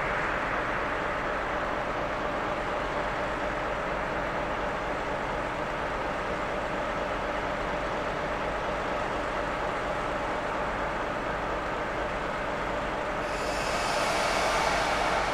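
Steady train noise with a constant hum. About thirteen seconds in, a higher hiss joins and it grows slightly louder.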